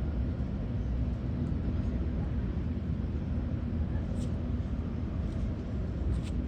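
Freight train cars rolling past, a steady low rumble, with a few brief faint high-pitched squeaks in the second half.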